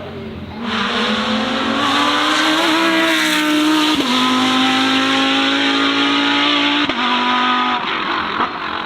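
High-performance car engine accelerating hard: its pitch climbs, drops suddenly at a gear change about four seconds in, holds, then breaks again near seven seconds and fades away.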